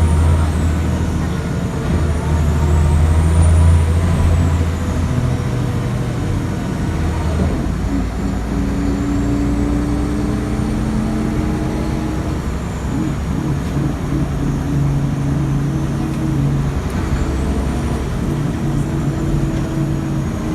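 Scania L94IB bus's diesel engine and ZF 5HP500 automatic gearbox running under way, loudest for the first four seconds, then settling as the tone shifts in steps. A faint high whine rises and falls throughout.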